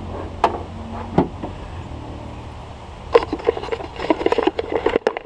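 A few sharp metal clicks as a replacement window regulator is worked into a pickup truck's door frame, then about two seconds of quick rattling knocks, over a low steady hum that stops near the end.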